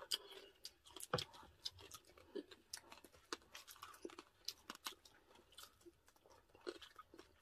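Close-up chewing and crunching of crispy roast pork and chicken eaten by hand, faint, with many irregular sharp crunches and mouth clicks.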